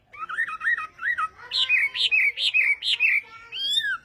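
Chinese hwamei singing: a varied run of quick, slurred whistled notes, some repeated in short series at about three a second, ending in a longer slurred whistle.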